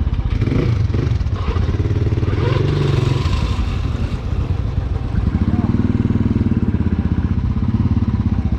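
A motorcycle engine running steadily at low revs, with a brief dip in level about halfway through.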